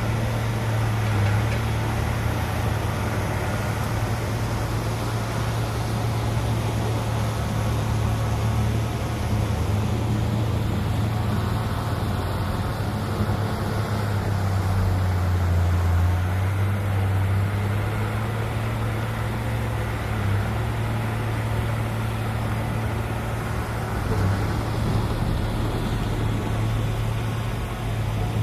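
Heavy diesel engine of earthmoving machinery running steadily, a continuous low drone that swells a little now and then.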